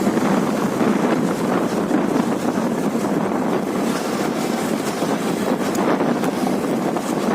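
Steady wind rush on the microphone of a moving motorcycle, with road and engine noise mixed in.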